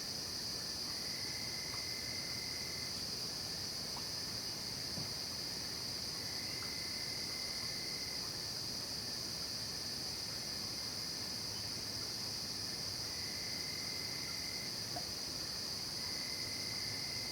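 Night insect chorus of crickets, a steady high-pitched drone. A lower trill comes in four times and holds for about two seconds each time.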